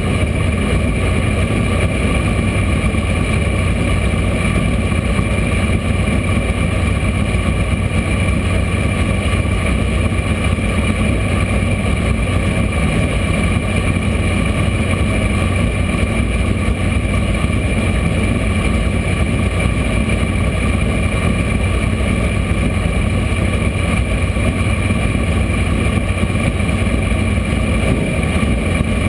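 Race car engine idling steadily, heard from inside the car's cockpit, with no revving.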